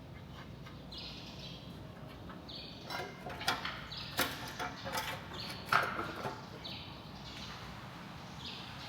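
A run of sharp knocks and clinks between about three and six and a half seconds in, over a short high chirp that repeats about once a second.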